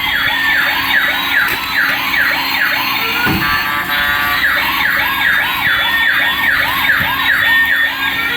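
Toy police car's electronic siren: a fast yelp repeating about two or three times a second, over a slower wail that glides up and down.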